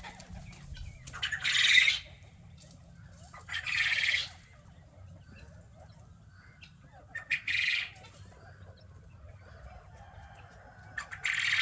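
Chickens flapping their wings in four short bursts, a few seconds apart.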